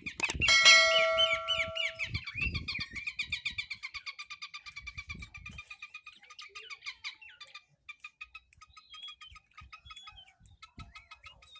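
A campeor songbird singing hard: a fast, unbroken string of high chirps, several a second, loudest near the start and thinning into sparser calls after about seven seconds. A few low knocks sound in the first few seconds.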